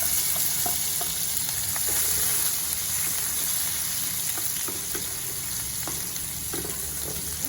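Soaked dried shrimps sizzling steadily in hot oil in a pan, with scattered light taps and scrapes of stirring.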